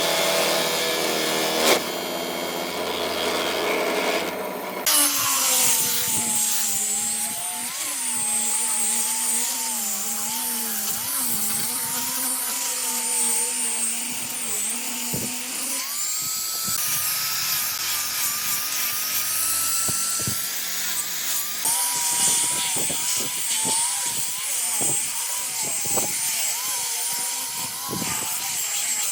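Electric power tools working wood. A motor whine wavers in pitch as the tool bites and eases, with abrupt changes in tone a few times along the way.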